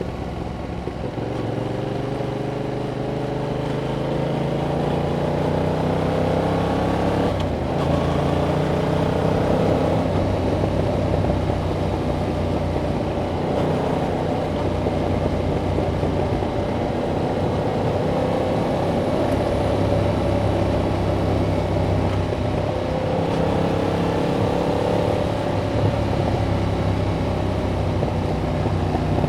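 2021 Yamaha MT-07's 689 cc parallel-twin engine through its stock exhaust, heard from the bike while riding. The revs climb steadily, there is a gear change about seven seconds in, and then the engine pulls up again and runs on with gentle rises and falls in revs.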